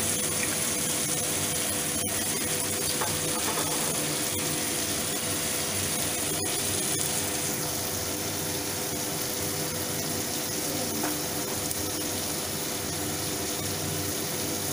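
Spiced vegetable masala with chilli sauce sizzling steadily as it fries in an aluminium kadai.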